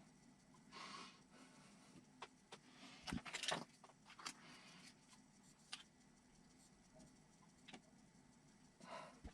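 Faint clicks and taps of small plastic and metal RC kit parts being handled and fitted together, with a short cluster of louder clicks about three seconds in.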